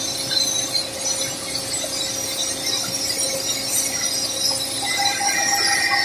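Simba S7D long-hole drill rig drilling with T-38 rods and a 64 mm bit: a steady, loud metallic rattle and hiss from the rock drill, with a squealing tone coming in near the end.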